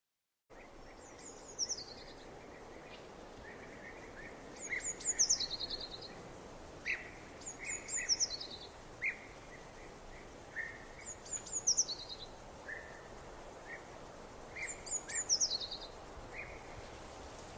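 A songbird singing the same short high phrase over and over, each one falling in pitch, about every three seconds, with shorter, lower chirps between. Under it a steady hiss of outdoor noise; the sound begins after a brief silence.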